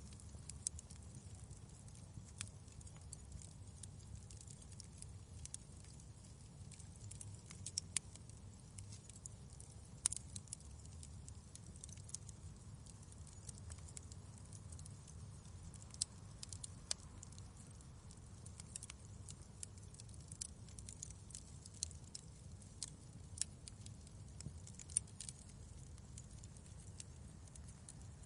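Fireplace crackling: irregular sharp pops and snaps, a few every couple of seconds, over a low steady rumble.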